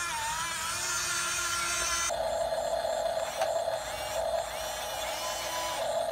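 Small electric motors of remote-controlled toy construction vehicles whining, with the pitch sliding up and down and the sound changing abruptly about two seconds in.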